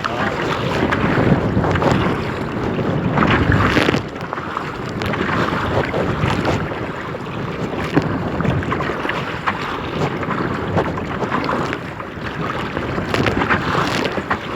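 Strong wind buffeting the microphone over water splashing around a kayak, with a few louder surges.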